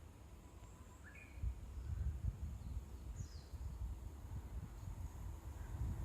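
A few short, high bird chirps sliding downward in pitch, over outdoor ambience; from about a second and a half in, an uneven low rumbling noise rises and stays the loudest sound.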